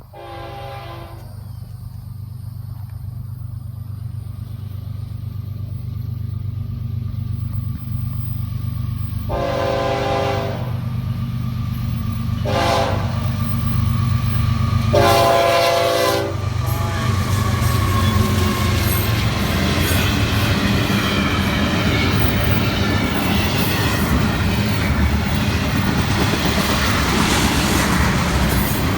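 Florida East Coast Railway diesel freight train approaching and passing, its engine rumble growing steadily louder. The locomotive horn sounds a blast at the start, then a long blast, a short one and a long one between about nine and sixteen seconds in. From about seventeen seconds the passing cars' wheels clatter steadily over the rails.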